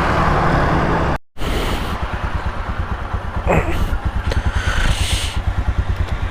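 Royal Enfield Himalayan single-cylinder motorcycle engine running as the bike moves off, with a steady low pulsing exhaust beat. The sound cuts out for an instant just over a second in, and a short sliding tone is heard about halfway through.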